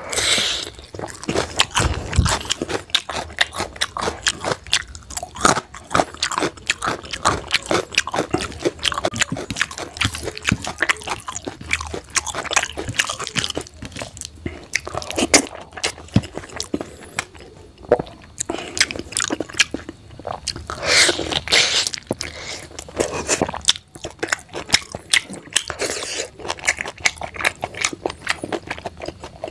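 Person chewing and biting a mouthful of rice, egg and potato curry eaten by hand, with a dense run of quick wet smacks, clicks and crunchy bites.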